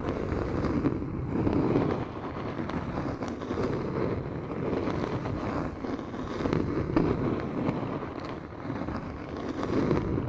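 Close-microphone ASMR rubbing: a muffled, low rustling noise right on the microphone that swells and fades in slow waves, with faint crackles above it.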